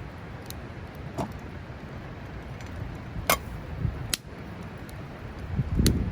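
Wood campfire with a few sharp pops and crackles over a steady low rumble.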